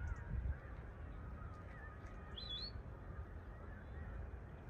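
Outdoor ambience: a steady low rumble with wind buffeting the microphone near the start. About halfway through, a bird gives a short sweeping chirp over a few faint, thin bird calls.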